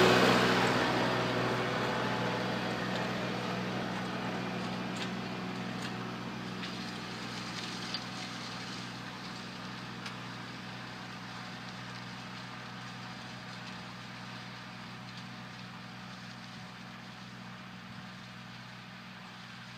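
Kubota 4701 compact diesel tractor engine running steadily, growing gradually fainter as it moves off, with a couple of faint clicks partway through.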